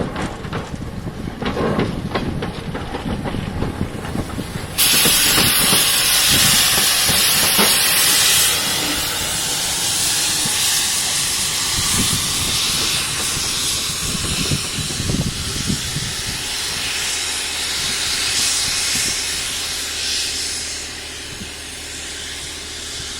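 Steam locomotive releasing steam: after a low rumble, a loud hiss starts suddenly about five seconds in, eases a few seconds later and keeps going, fading away near the end.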